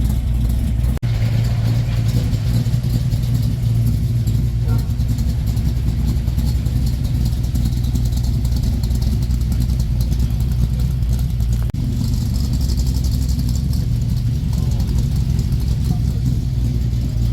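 Car engines running with a steady low rumble, broken by two abrupt cuts, about a second in and near twelve seconds.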